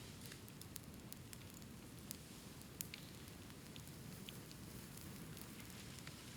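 Bamboo bonfire crackling: scattered small sharp snaps and pops over a low, steady rush of burning.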